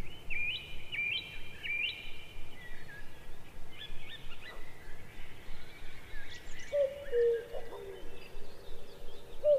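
Birds calling outdoors: a chirped phrase of quick rising notes repeated three times in the first two seconds, then scattered higher calls. From about two-thirds through, a lower whistled call repeats.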